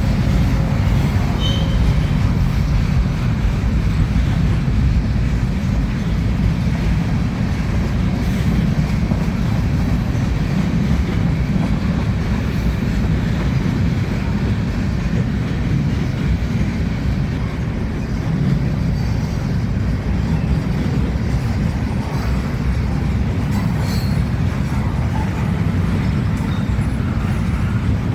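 Freight train cars rolling past: a steady low rumble of steel wheels on the rails, with faint clicks and brief high wheel squeals now and then.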